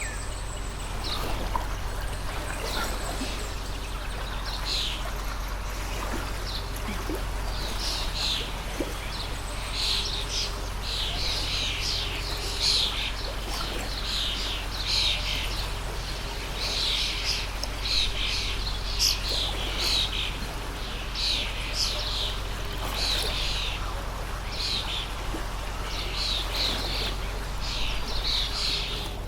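Water stream flowing steadily, with small birds chirping over it in quick, repeated short calls.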